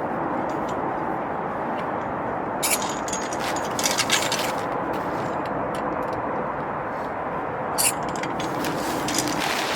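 Steady low rushing noise, with a few short, sharp rustling sounds about three, four and eight seconds in.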